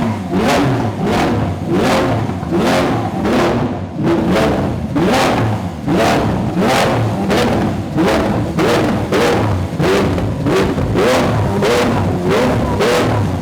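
Lamborghini Aventador's V12 engine revving in repeated rising blips, mixed with hip-hop music that has a steady beat of about two beats a second.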